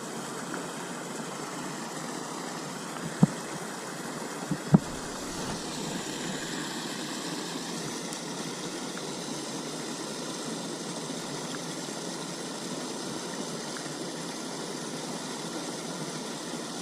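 Steady, even background hum with no clear pitch, broken by two sharp knocks: one about three seconds in and another about a second and a half later.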